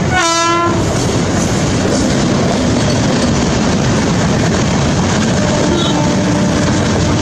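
Train horn giving a short blast near the start, over steady, loud train running noise with some clickety-clack of wheels on rail joints; a fainter horn tone comes in near the end.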